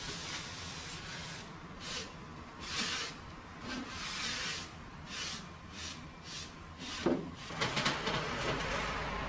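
Household cleaning by hand: a series of short swishing strokes, like a cloth or brush wiping a shelf, followed near the end by a few light knocks and clatter of things being handled.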